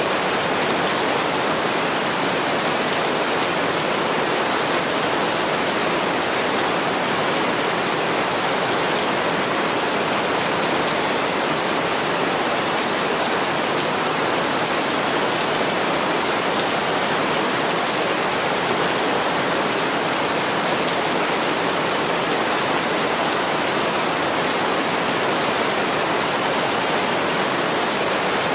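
Heavy rain pouring steadily onto a window: a dense, even hiss that does not change.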